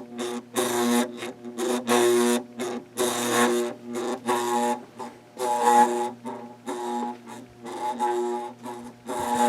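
A 1992 Bahama 52-inch hugger ceiling fan's motor running on low with a loud, droning hum that swells and fades in uneven surges about once or twice a second. The owner puts the noise down to worn bearings with a lot of play and suspects the capacitor is going out.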